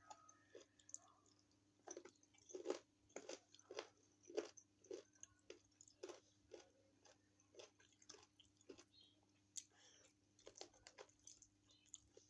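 Close-up chewing and biting of chicken feet: irregular sharp crunches and wet clicks, a few a second, loudest in the first half.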